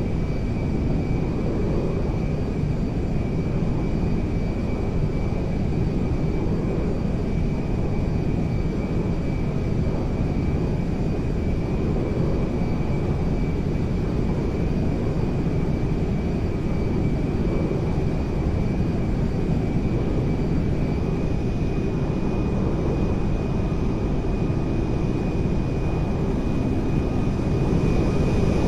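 Fixed-wing airplane's engines droning steadily, a deep even rumble with a thin steady whine on top.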